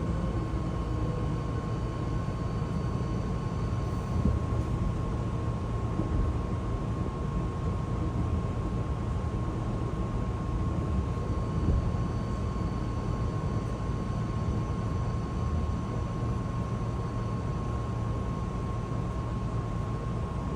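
Hankyu Kyoto Line train giving a steady low rumble with a constant high whine over it.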